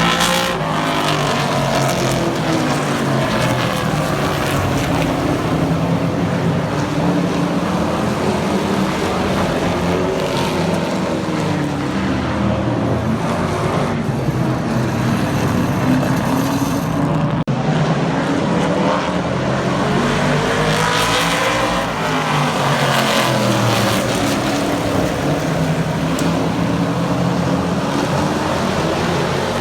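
Super truck race cars' engines running laps together, with their pitch sweeping up and down as the trucks come past, most clearly right at the start and again about twenty seconds in.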